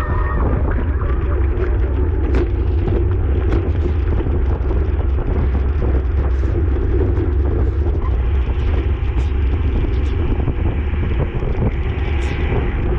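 Wind buffeting the microphone of a camera carried on a racing bicycle at speed: a steady, loud, low rumble.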